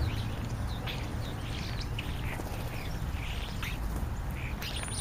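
A flock of European starlings chattering, with many short squawks and whistles coming several a second, over a steady low rumble.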